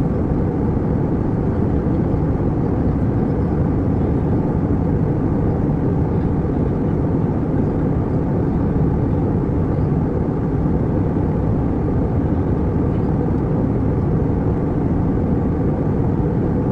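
Steady low rumble of an airliner cabin in flight: engine and airflow noise, even and unchanging.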